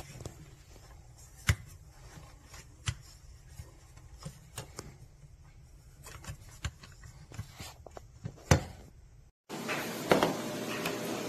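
Scattered sharp clicks and taps over a low background, the loudest about a second and a half in and near the end; about nine seconds in the sound cuts out briefly and gives way to a steadier, louder noise with a faint hum.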